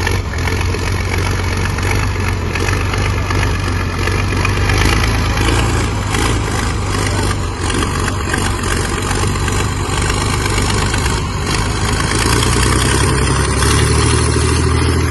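Hürlimann H-6170T tractor's diesel engine running loud and steady under load in a tractor pull, with a low drone beneath. It gets a little louder about twelve seconds in.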